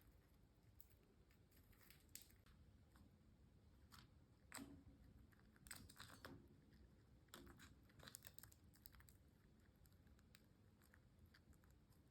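Near silence with faint scattered clicks and scratchy ticks, a few slightly louder ones in the middle.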